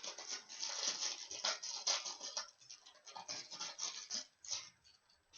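Packaging being pulled and torn off a baseball bat: a rapid, uneven run of rustling, scratching and tearing strokes.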